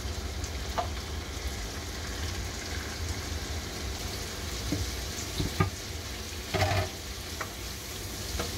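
Squid pieces sizzling steadily in hot butter and vegetable oil in a frying pan. A wooden spatula stirs them, knocking against the pan a few times.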